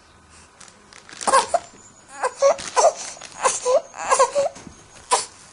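A baby crying in short, broken sobs: about six brief cries with gaps for breath between them.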